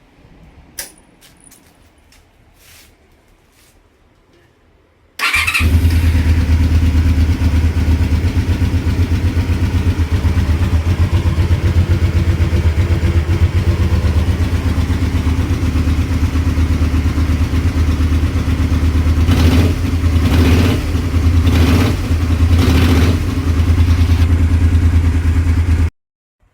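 A few faint clicks, then about five seconds in a motorcycle engine comes in suddenly and runs steadily at idle, with several short blips of the throttle near the end before the sound cuts off abruptly.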